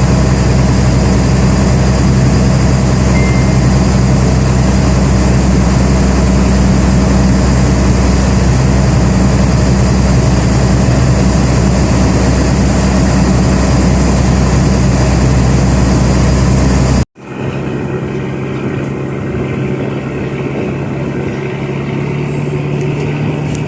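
Boat engine running steadily with a loud low drone. About two-thirds of the way through it cuts off abruptly and a quieter, different engine hum takes over.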